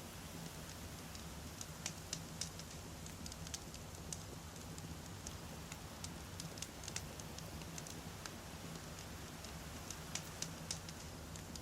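Wood fire crackling: irregular sharp pops from burning firewood over a steady low rumble of the flames.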